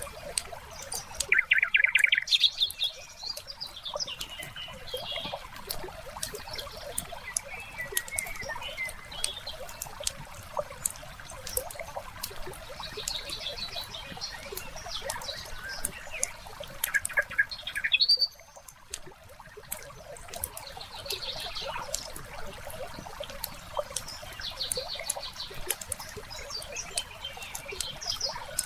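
Wood fire crackling with many small snaps throughout, with birds chirping over it. Bursts of birdsong stand out about two seconds in and again around seventeen seconds in, with softer calls between.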